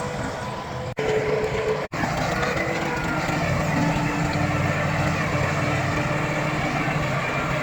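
Heavy diesel earthmoving machinery running steadily, the engine note even throughout. The sound cuts out very briefly twice, about one and two seconds in.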